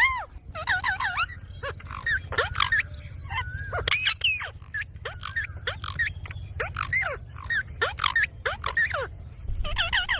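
Green ringneck parrots calling and chattering: a rapid string of short squawks that rise and fall in pitch, over a steady low hum.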